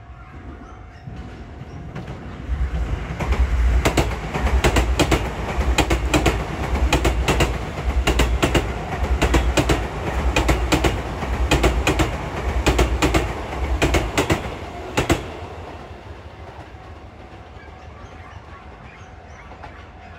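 Electric commuter train passing at speed: a low rumble that builds, then wheels clacking over rail joints in regular pairs about once a second for some twelve seconds, before it fades away.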